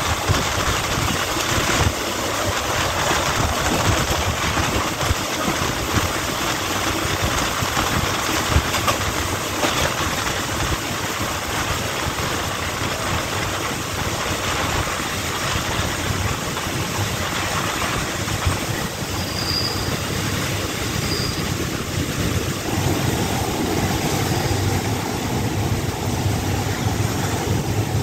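Running noise of a commuter train heard from an open carriage window: wheels on the rails and rushing air, steady throughout, as the train draws into a station. A steadier hum comes in about three-quarters of the way through.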